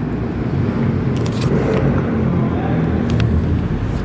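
Car engine running steadily at low revs, as a car idles or creeps along at low speed.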